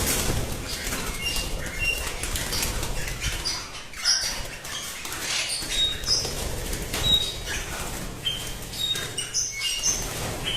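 Pet birds fluttering and flapping their wings, with many short, high chirps and whistles scattered among the flutters.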